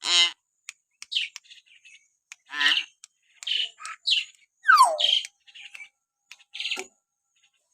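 Hill myna calling: a string of short whistles and harsh, buzzy squawks broken by sharp clicks, with one whistle falling steeply in pitch about five seconds in.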